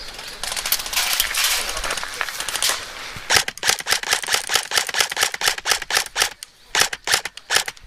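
An electric airsoft rifle, a Tokyo Marui M14 set to semi-auto, firing a fast string of single shots, about five a second, with a brief pause and a few more shots near the end. It is preceded by a denser clatter of airsoft fire.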